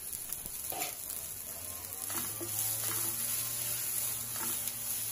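Sprouted moong beans and curry leaves sizzling in a nonstick pan with a steady hiss as they sauté, with a few light spatula scrapes and ticks as they are stirred.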